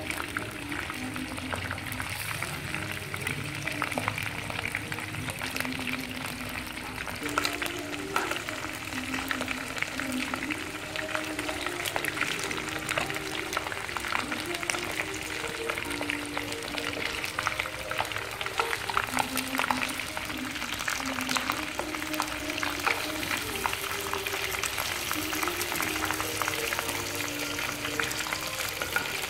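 Chicken pieces sizzling and crackling as they fry in shallow oil in a nonstick pan, with a steady spatter of small pops. A simple background melody plays throughout.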